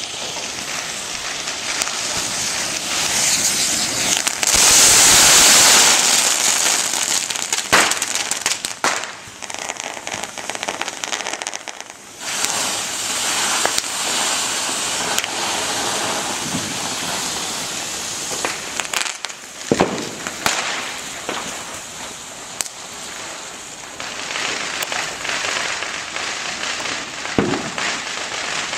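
Homemade firework of morning glory sparklers and small firecrackers burning: a continuous fizzing hiss, loudest about five seconds in, with scattered sharp bangs.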